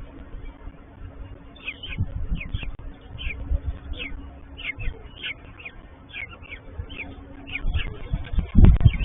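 Peregrine falcon chicks begging with rapid, high-pitched cheeps, two or three a second, over wind buffeting the microphone. The wind gusts louder near the end.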